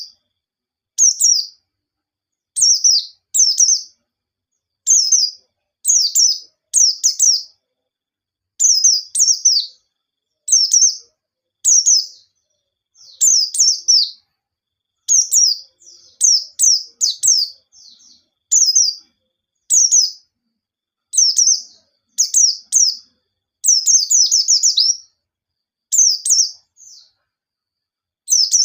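A white-eye (pleci) singing in short, fast bursts: each a rapid run of high, sharp notes falling in pitch, about half a second long, repeated every second or two with clean silence between. This is the hard, rapid 'nembak' singing that keepers play to set other pleci singing.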